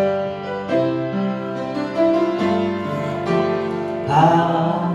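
Keyboard playing the introduction of a praise song in held chords that change every second or so. Singing voices come in near the end.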